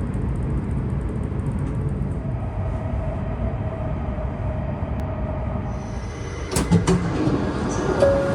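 Train running with a steady low rumble, a faint whine held through the middle, and two or three sharp knocks about six and a half seconds in.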